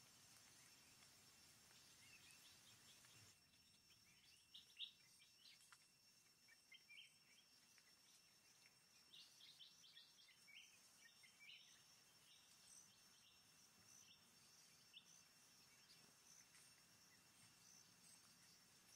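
Near silence: faint forest ambience with scattered soft bird chirps and a steady high-pitched tone in the background.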